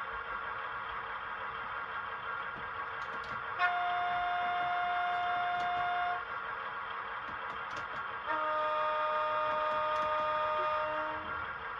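Model locomotive's sound-fitted horn sounding two long blasts, about two and a half and three seconds each, the second lower and more chord-like, over a steady running hum.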